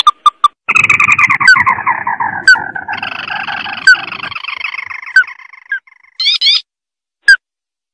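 Lure recording of a red-eyed crake (burung tikusan mata merah) calling: a harsh chattering trill that falls in pitch over about four seconds, with sharp single notes scattered through it and a brief burst of quick rising notes near the end.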